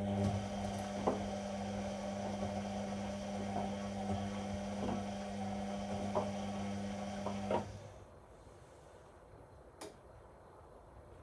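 Whirlpool Indiana 1400 washing machine's drain pump humming steadily with light ticks, pumping out the water before the spin. It stops about eight seconds in, and a single click follows near the end.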